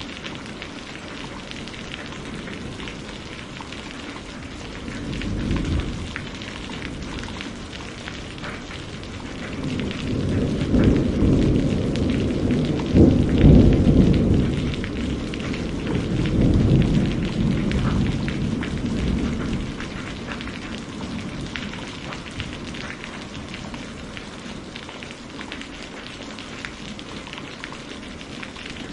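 Steady rain, an even hiss of drops, with a long roll of thunder that swells about a third of the way in, peaks near the middle and fades away; a shorter, softer low rumble comes a few seconds in.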